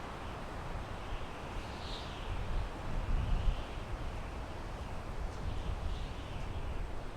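Wind blowing through pine trees: a steady rushing with a low rumble that swells into a stronger gust around the middle. Faint high calls recur every couple of seconds in the background.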